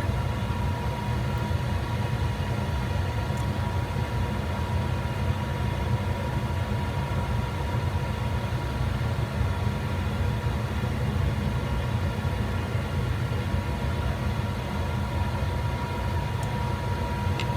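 Steady low machinery hum with a faint high whine, unchanging throughout.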